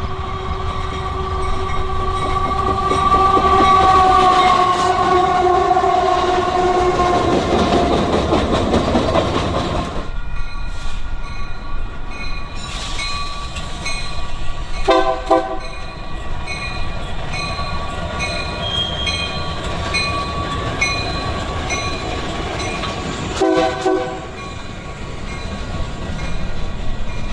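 Union Pacific freight locomotive horn held as a chord for several seconds, its pitch sagging slightly as the locomotive passes, followed by the rumble of the train going by. After a sudden change about ten seconds in, a train runs steadily, with two short horn blasts, one about halfway through and one near the end.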